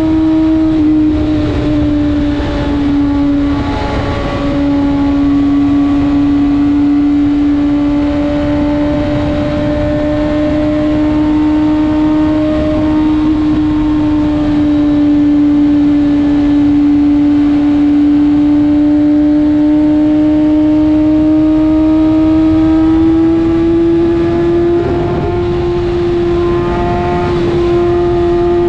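BMW S1000RR's inline-four engine held at a steady cruising speed, one constant engine note over a low rushing noise. The pitch sags slightly early on and rises a little in the last few seconds.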